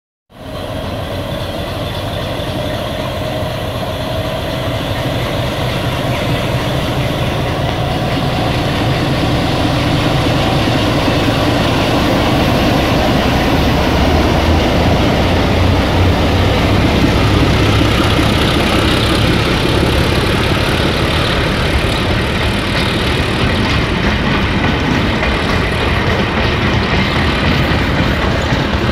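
Diesel locomotive hauling a passenger train past at close range: the engine running under load over the steady rumble and clatter of wheels on the rails, building slightly in loudness.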